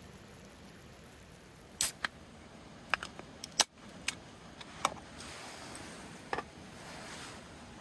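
A series of sharp clicks and knocks, about nine of them in a few seconds, spaced unevenly, the loudest about three and a half seconds in, followed by a soft hiss in the last few seconds.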